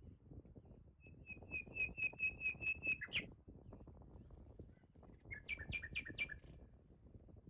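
A songbird calling: a quick run of about eight even, high notes at roughly four a second, closed by a different note, then a shorter run of about five notes a couple of seconds later.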